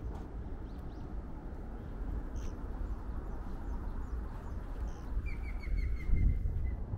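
Small birds chirping over a steady low background rumble. Near the end one bird gives a quick run of repeated notes that falls slightly in pitch and fades away.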